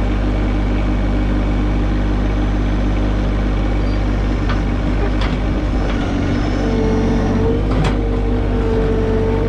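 Compact diesel tractor engine running hard while the tractor is stuck in mud, the operator working the front bucket to try to pull it out. A steady higher whine joins about two-thirds of the way through.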